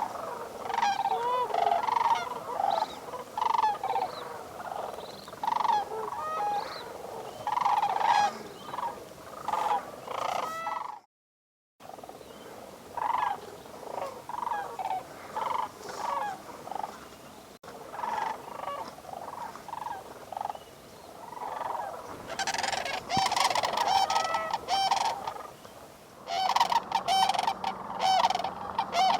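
A flock of sandhill cranes calling, many calls overlapping. The sound drops out completely for about a second near the middle, then the calls resume and grow busier towards the end.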